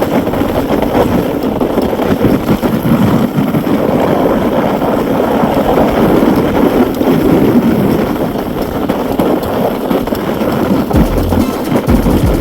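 Wind buffeting the microphone with a steady rumble, as from riding an electric bike.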